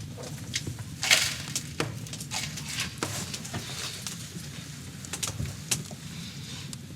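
Wood fire crackling, with irregular sharp pops, the loudest about a second in, over a low steady rumble.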